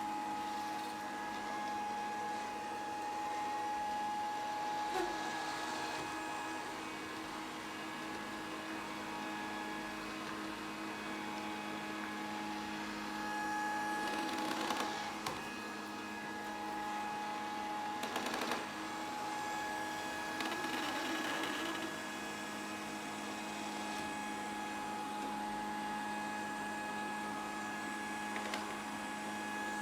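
Grundig VCR 2131 robot vacuum running, its motor giving a steady hum with a constant whine. A few brief louder scuffing noises come about halfway through.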